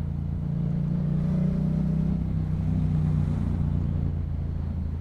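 Yamaha MT-07's parallel-twin engine running through a Yoshimura aftermarket exhaust at low road speed, the note rising slightly about a second in and easing back near the middle.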